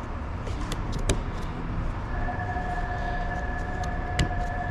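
Volvo XC90 hybrid giving off a steady two-tone electronic hum that starts about halfway through and holds on, over a steady background noise. A few sharp clicks come in the first half.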